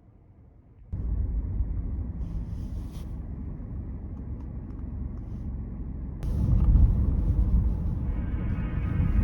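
Low, steady rumble of a car on the road, starting about a second in and growing louder about six seconds in.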